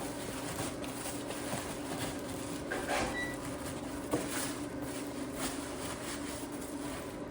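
Faint rustling and crinkling of a plastic tarp being stuffed into place by hand, in scattered bursts, with a small click about four seconds in, over a steady low hum.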